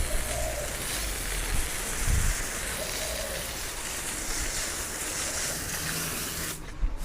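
High-pressure washer spraying water, a steady hiss with a few low thumps; the spray briefly cuts out near the end.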